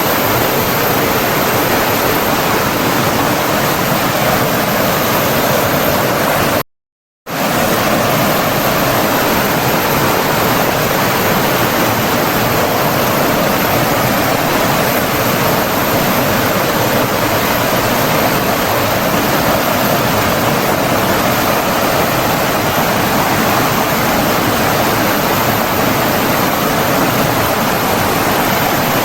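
Steady rushing of flowing water from a stream or small waterfall. About seven seconds in, the sound cuts out completely for about half a second, then resumes.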